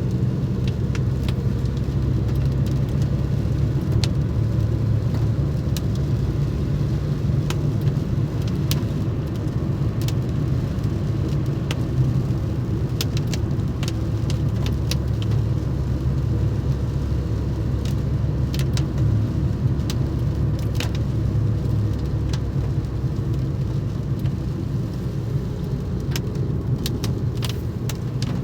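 A road vehicle driving steadily, with a constant low engine and road rumble. Scattered sharp ticks and taps come irregularly on top of it.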